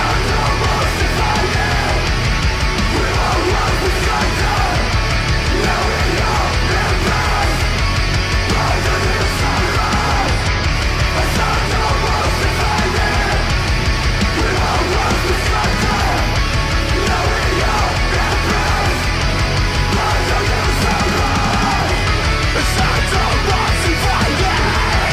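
Loud, dense heavy metal music from a Japanese metal band, with distorted guitars and a fast, steady drum beat.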